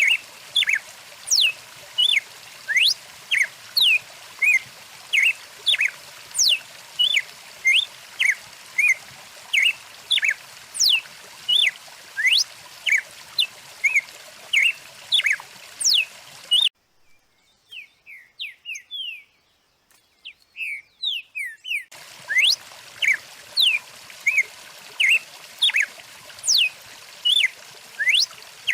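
Songbirds chirping and whistling rapidly, a couple of short calls a second, some sweeping up or down, over the steady rush of a stream. About two-thirds of the way through the water sound cuts out for about five seconds, leaving only fainter chirps, then both return.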